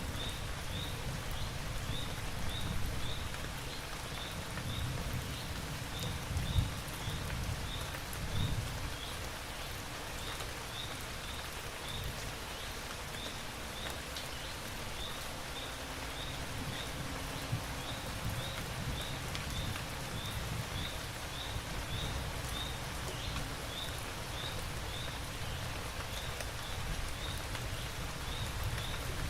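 Steady rain falling, with a short high chirp from a small animal repeating about twice a second through it. Two louder low bumps come about six and eight seconds in.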